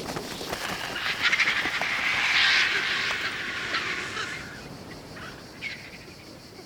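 Griffon vultures giving raspy, hissing calls, loudest about two and a half seconds in and dying away by about four seconds.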